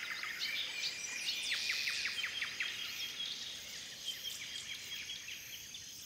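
Night garden ambience: short bird chirps and a quick run of clicking notes, over a steady high cricket-like trill. It fades slightly toward the end.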